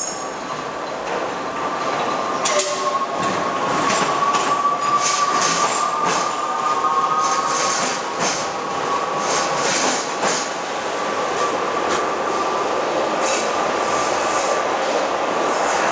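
Manchester Metrolink tram running through the stop: a steady whine, with wheels clicking sharply over the track joints at irregular intervals.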